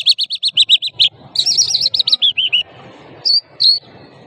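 Lark singing: a fast run of repeated high chirping notes, then a second run that steps down in pitch, and two single notes near the end.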